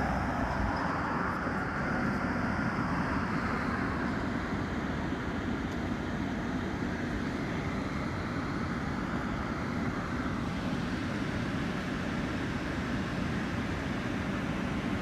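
Steady rumble and hiss of a moving car, with road and wind noise heard from inside the vehicle.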